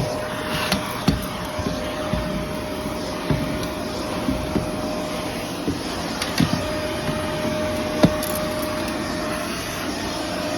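Vacuum cleaner running steadily, with a constant faint whine over its motor noise and scattered short knocks and clicks.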